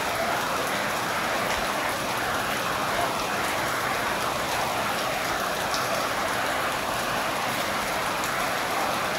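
Steady rain falling at night, a continuous even patter of drops on surfaces.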